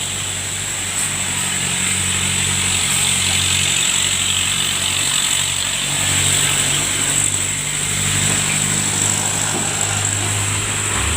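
Traffic: a large vehicle's engine running with a steady low drone, over road noise.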